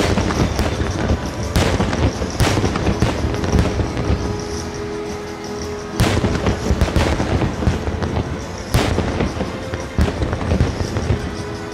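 Fireworks shells bursting in a fast, irregular series of booms and cracks, about a dozen in all, with music playing underneath.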